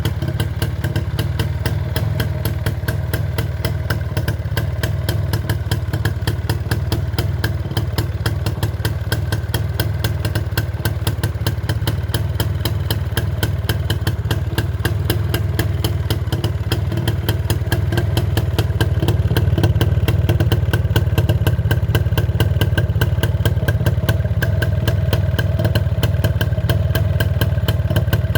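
IZh Planeta 5 motorcycle's single-cylinder two-stroke engine running at idle from a cold start, with an even, rapid beat. It gets slightly louder about two-thirds of the way through.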